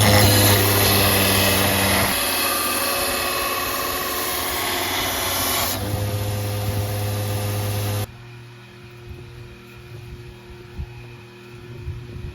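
Power tool running on metal with a loud, steady grinding noise over a motor hum. It stops abruptly about eight seconds in, leaving a faint hum with a few light knocks.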